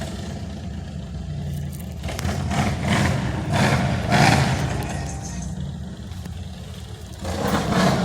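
Car engine revving, its low running note starting up abruptly and surging in loud swells: a long one peaking about halfway through and a shorter one near the end.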